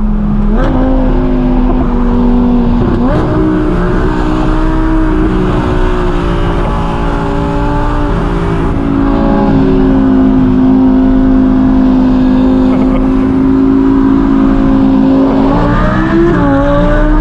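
Car engine running at a steady speed, its drone stepping up in pitch a few times and climbing near the end as the revs rise.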